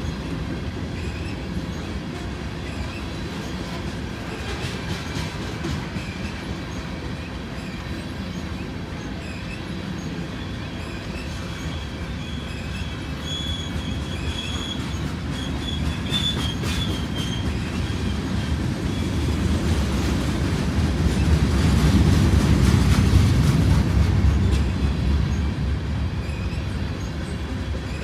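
Freight train's covered hopper cars rolling past steadily, wheels rumbling on the rails. A high, thin wheel squeal comes in for a few seconds around the middle. The rumble swells louder for a few seconds about three quarters of the way through.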